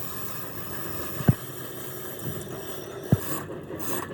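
Two sharp knocks, a little under two seconds apart, over a steady mechanical running noise with a hiss.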